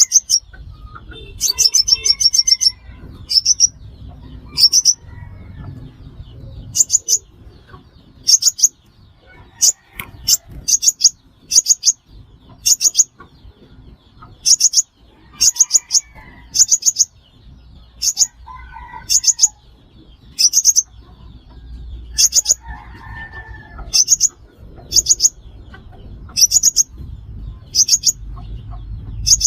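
Sunbird calling: short, sharp, very high chirps, each a quick cluster of a few notes, repeated roughly once a second over a faint low rumble.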